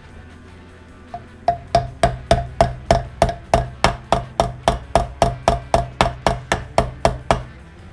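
Hammer blows on the inside of a Rotax 277 engine's aluminium crankcase, about three quick ringing taps a second for some six seconds, bending a damaged section back into shape.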